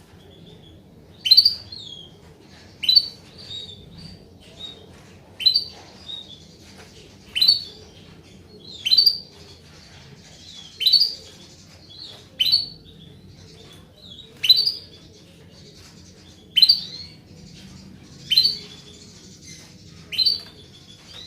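Female domestic canary calling: a short, sharp, high chirp repeated about every one and a half to two seconds, roughly a dozen times. These are the female's calls used as a lure to get a silent male canary to sing.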